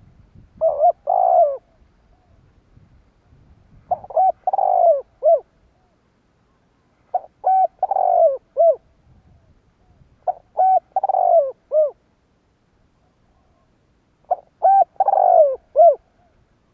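Spotted dove cooing: five phrases of a few notes each, repeated about every three seconds.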